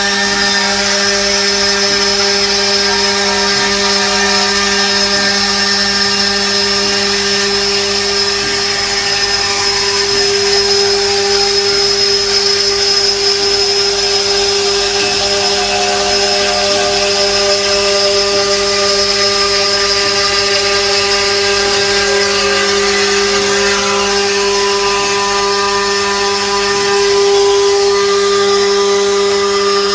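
CNC glass-working machine running steadily, with a continuous motor hum and a high whine above it.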